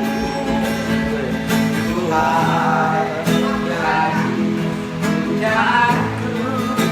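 Strummed acoustic guitar accompanying an old man singing a busker's song, with his voice coming in on long, wavering notes twice.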